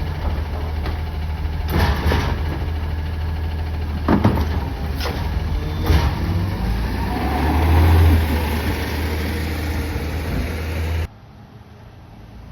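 Natural-gas engine of a Peterbilt 520 garbage truck running, with a few sharp clanks and a rise in engine speed around eight seconds in. The sound drops away abruptly about eleven seconds in.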